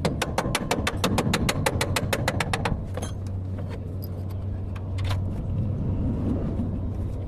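Fast, even metallic clicking, about seven or eight clicks a second, that stops about three seconds in, leaving a few single clicks over the steady low hum of an idling engine.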